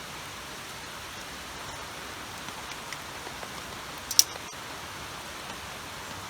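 Steady hiss of rain and running water, with a single sharp snap about four seconds in.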